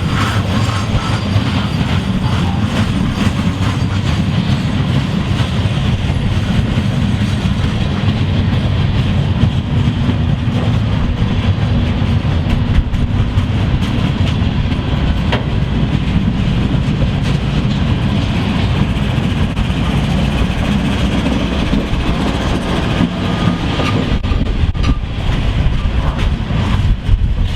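A train rolling past close by, its cars running steadily over the rails.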